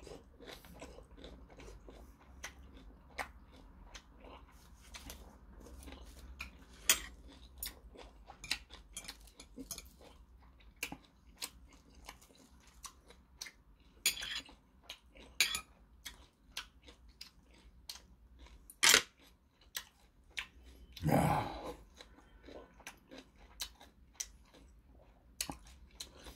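Close-up mouth sounds of a man eating rice and pork belly wrapped in laver: quiet wet chewing with scattered sharp clicks and smacks. About three quarters of the way through, a short vocal sound from his throat rises above the chewing.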